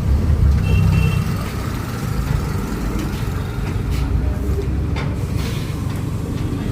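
Truck engine running with a steady low rumble, a little louder in the first second, with a few sharp knocks about four and five seconds in.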